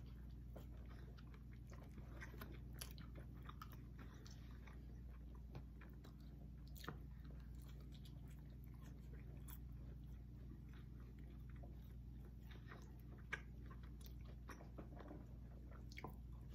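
People biting and chewing pizza: faint small clicks and crackles of mouth noise scattered throughout, over a steady low hum.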